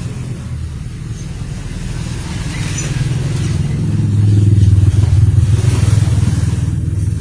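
A motor or engine running with a steady low hum, getting louder about four seconds in and easing off near the end.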